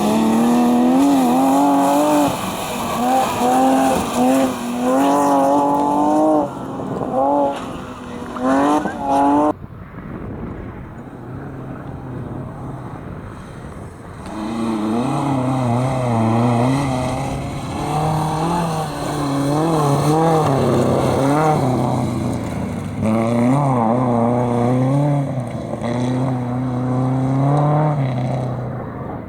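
Competition car engines revving hard, rising and falling quickly as the throttle is blipped on and off. The sound cuts off abruptly about ten seconds in, and a second engine with a deeper note takes over a few seconds later.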